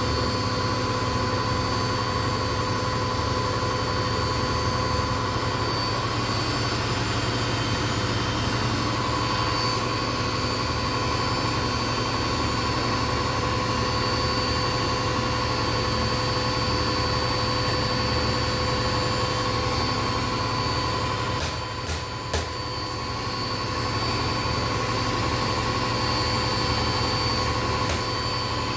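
Indesit washing machine on a 1000 rpm spin: a steady motor whine over the rush of the spinning drum. About three quarters of the way through, the sound dips briefly with a few sharp clicks, and there is one more click near the end.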